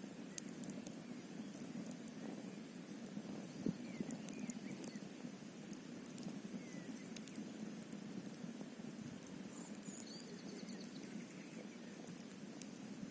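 Wood campfire crackling, with scattered sharp pops (the loudest about three and a half seconds in) over a steady low rush.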